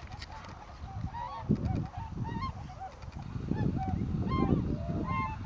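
A flock of swans calling: many short honking calls overlapping from several birds, over a low rumble that grows louder about halfway through.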